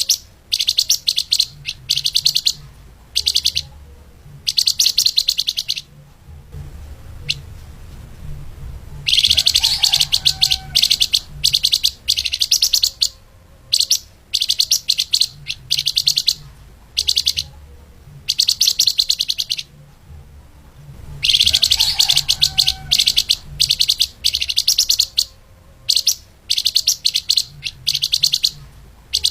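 Flamboyan (lemahan) songbird singing fast, tightly packed high trills in short bursts of about half a second, repeated with brief gaps, with two longer runs of song. A faint low hum runs underneath.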